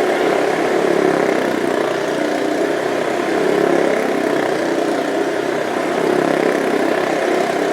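Motorcycle engine running steadily and loudly, with a slight rise and fall in level.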